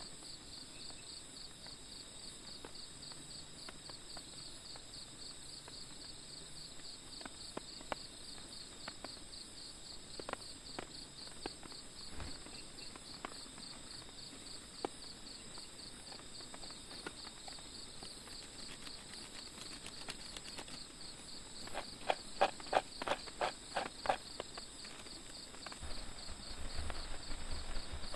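Insects, crickets or similar, trilling steadily in a high, pulsing chorus. Scattered small clicks sound over it, and a quick run of about eight knocks comes about 22 seconds in.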